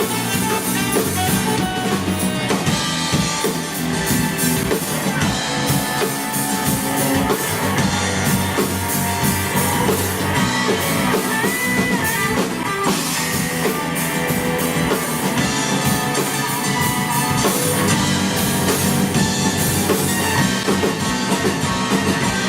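Live rock band playing an instrumental passage with drum kit and electric guitar over a steady beat, without singing.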